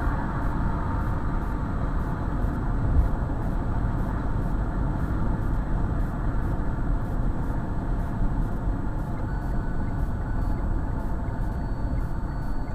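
Steady engine and tyre noise of a car driving along.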